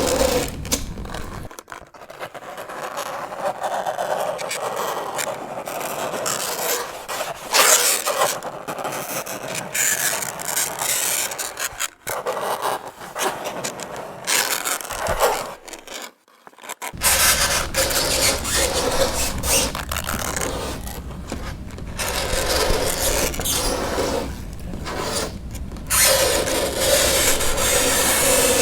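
Fingernails scraping across a chalkboard in long strokes, with a few short breaks between them. A steady squealing tone sounds at the start and again near the end.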